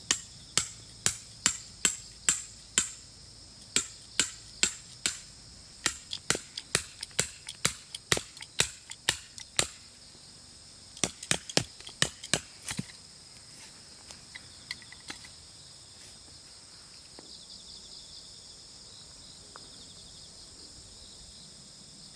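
Hammer driving a tent stake into the ground: a run of sharp strikes at about two a second for some ten seconds, then a quicker flurry of blows around eleven to thirteen seconds in.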